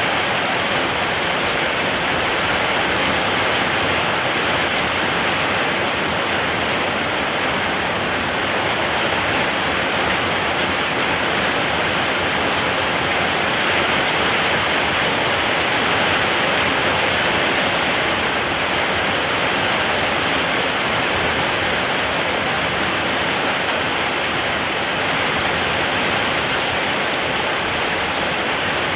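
Steady rain falling, an even, unbroken hiss of many drops with no distinct single impacts.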